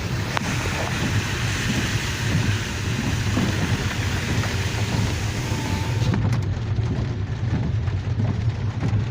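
Rain and water spray hissing on a car driving through flooded road, heard from inside the cabin over the steady low rumble of the car. The high hiss thins out about six seconds in.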